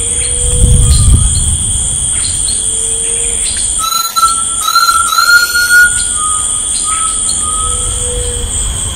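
Forest ambience: a steady high insect drone under bird calls. Short low whistles come now and then, and from about four seconds in a run of short, higher, rising whistled notes; a brief low rumble sounds near the start.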